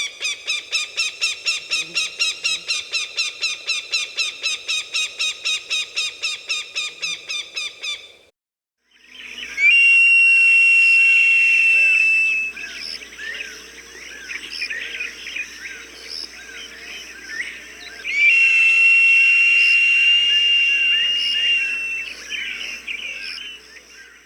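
Recorded falcon cries: a rapid cackling series of harsh calls, about five a second, for about eight seconds. After a short break, two long drawn-out high screams of a few seconds each follow, with smaller bird chirps around them.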